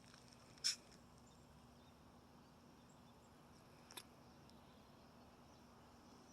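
Near silence with a faint steady hum, broken by one short sharp click less than a second in and a fainter click about four seconds in.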